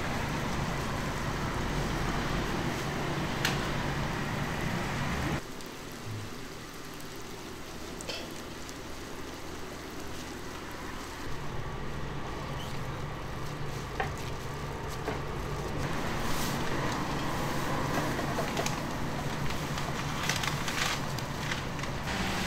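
Hotteok sweet pancakes sizzling in oil on a griddle, with a low steady hum underneath and a few light clicks. The sound drops abruptly about five seconds in and comes back up around eleven seconds.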